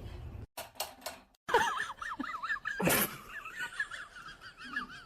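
An animal making quick, wavering high-pitched chirps, continuing after a few clicks, with a single sharp knock about three seconds in.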